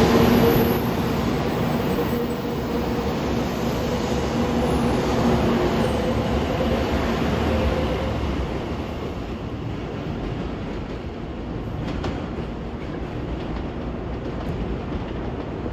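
800 series Shinkansen electric train running on the track, with a steady hum from its drive system and wheel and rail noise; the hum fades about halfway through and the whole sound eases off as the train draws away.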